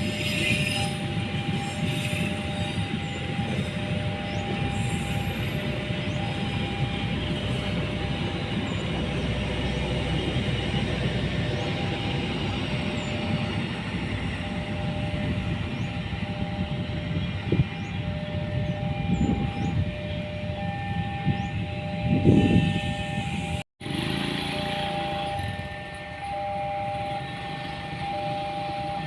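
Train running past with a steady rumble of wheels on rails. A repeating two-note electronic tone sounds on and off over it. The sound drops out briefly about three-quarters through, then the rumble carries on quieter.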